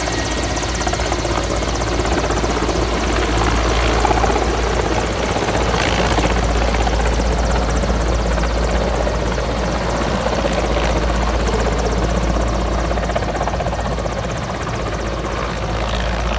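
Military helicopter running steadily, a loud continuous rotor and engine noise with a deep rumble underneath.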